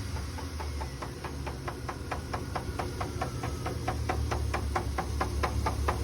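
Engine running with a rapid, even knock, about seven strikes a second, over a low steady hum; the knocking grows louder toward the end.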